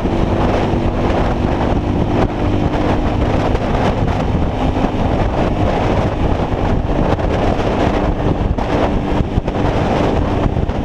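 Motorcycle running steadily at road speed, its engine a steady drone under heavy wind buffeting on the microphone.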